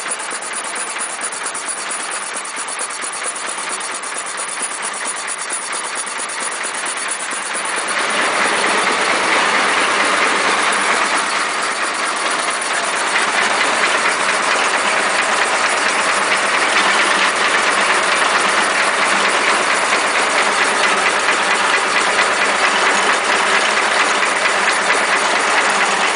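Land Rover 2.25-litre diesel engine idling slowly at a few hundred rpm with a steady chugging clatter, driving the air compressor as it cools down after hours of work. The sound gets louder about eight seconds in.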